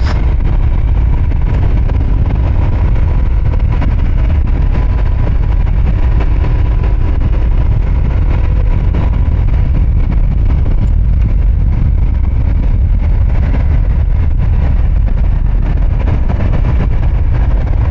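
Royal Enfield Himalayan's single-cylinder engine running steadily while riding a rough dirt road, under a heavy low rumble of wind on the microphone.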